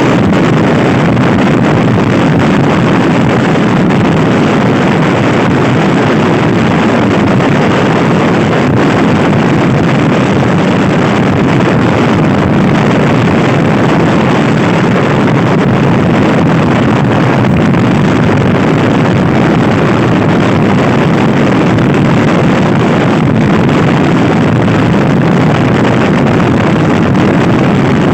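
Loud, steady wind rushing over the microphone of a moving Honda Scoopy-i scooter, with the scooter's single-cylinder engine running under it.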